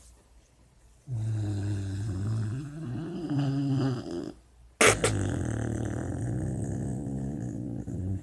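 Sleeping puppy snoring: two long, drawn-out snores of about three seconds each. A brief, sharp, loud noise comes just before the second snore.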